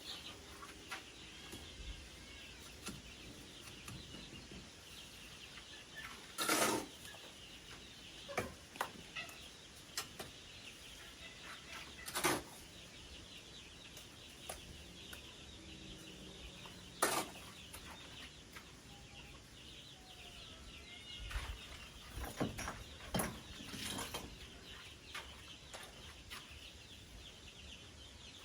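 Chickens clucking, with a few sharp, separate knocks over a steady high background hiss.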